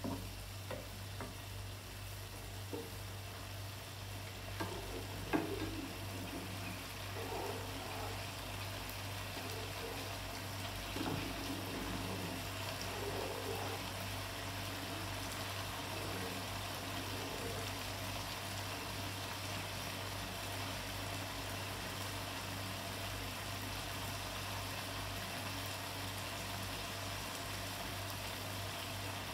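Meat and tomato spaghetti sauce sizzling steadily in a pan over a gas burner, over a steady low hum. A few knocks in the first seconds and some scraping in the first half come from stirring with a wooden spatula.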